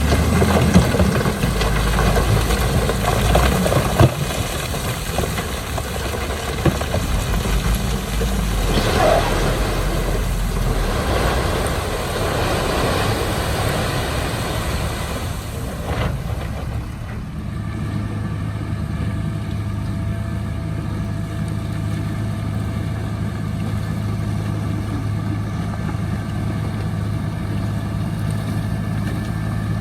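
Heavy diesel earthmoving machinery running: a loud, rough engine with a few clanks during the first half, settling after about 17 seconds into a steadier, even engine drone.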